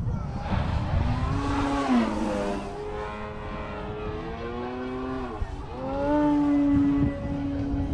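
Electric motor and propeller of a Pilot Extra 330SC RC aerobatic airplane in flight, a steady pitched drone that changes pitch with throttle and passes. It drops in pitch about two seconds in, dips again around five and a half seconds, then climbs back and holds a steady higher note.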